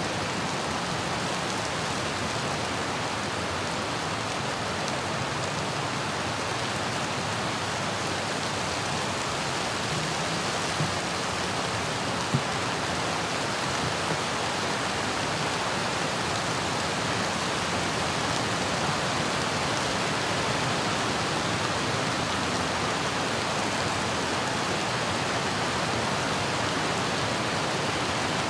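Steady rain pattering on and around the outdoor nest camera's microphone, an even hiss of drops, with two sharp ticks of drops striking close by about eleven and twelve seconds in.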